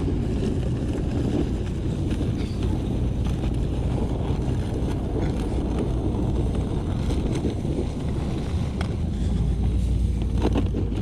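Steady low rumble of a pickup truck driving slowly over snow while towing sleds, with wind on the microphone and a few faint knocks.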